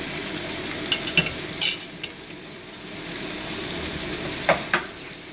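Bacon and onions sizzling steadily in oil in a frying pan, with a few sharp clicks and scrapes of a spoon and a wooden spatula against the pan as fermented shrimp paste is added and stirred in.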